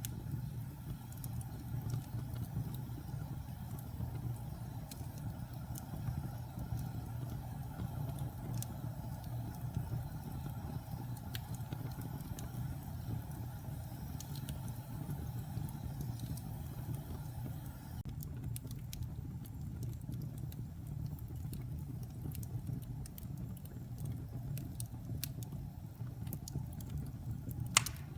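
Wood fire burning in a fireplace: a steady low rumble of flames with scattered small crackles and pops, and one sharper pop near the end.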